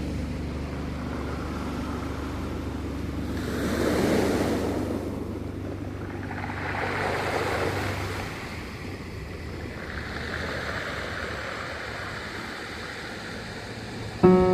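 Sea waves washing ashore over a low steady rumble, with two swells that rise and fall about four and seven seconds in. Piano music comes in just before the end.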